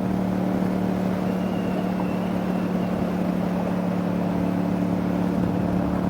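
Yamaha FZ-07 parallel-twin engine running at a steady cruise, one unchanging drone, with wind rush on the helmet.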